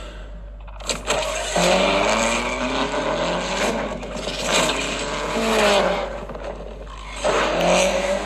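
A car engine revving, its pitch rising and falling in several runs, starting after a sharp click about a second in.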